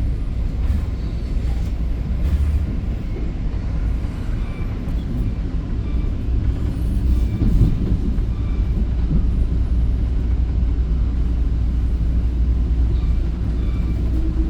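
Steady low rumble of an EXO commuter train car rolling along the track, heard from inside the passenger car.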